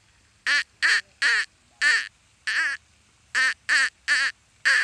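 A duck quacking: a run of about nine short, loud quacks in quick succession.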